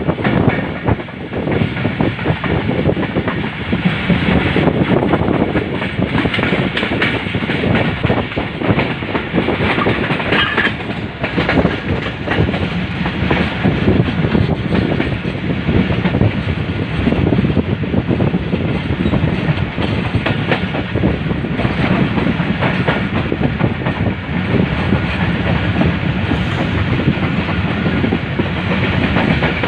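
Passenger train running at speed: a continuous loud rumble with rapid, irregular clacking of the wheels over rail joints. A brief high-pitched squeal rises over it about ten seconds in.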